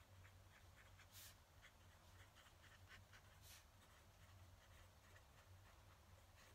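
Faint scratching of a fountain pen nib writing on paper, in many short strokes, with two brief louder swishes about a second in and about three and a half seconds in.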